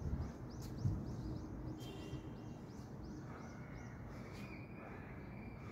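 Outdoor background noise with a small bird giving a quick run of short, high chirps, about three to four a second, that stops about four seconds in. A soft thump about a second in.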